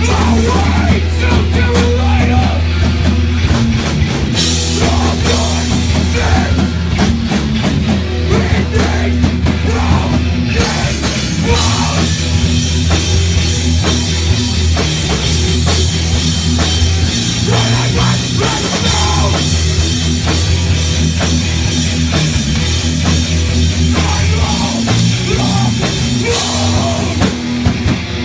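Loud live punk or heavy rock band playing: distorted guitars, bass and a drum kit pounding out a fast beat.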